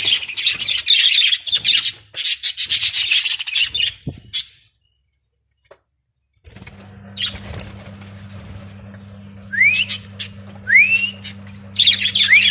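Caged budgerigars chattering and chirping. The chatter stops about four seconds in; after a short silence a steady low hum comes in, with two rising whistled chirps and a fresh burst of chatter near the end.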